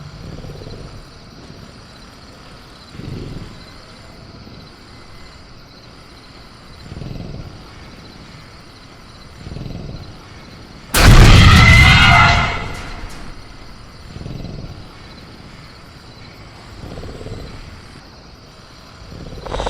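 Sound-design ambience of a caged velociraptor: low growls and grunts swell up every few seconds, and about eleven seconds in a sudden, very loud burst of the raptor shaking its cage lasts over a second. Faint steady crickets sound throughout.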